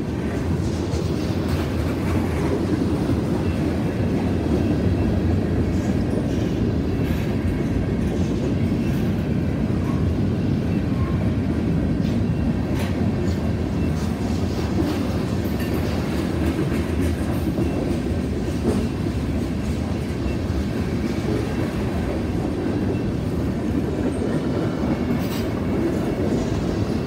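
Freight cars of a passing mixed freight train rolling by: a steady rumble of steel wheels on rail, with clickety-clack over the rail joints and scattered short clanks.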